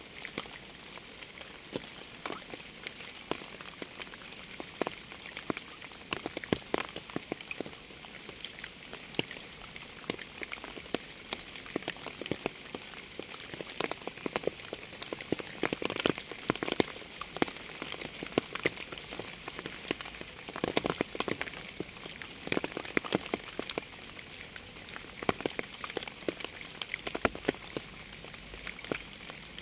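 Rain falling, with close raindrops landing as many sharp, irregular ticks over a steady hiss.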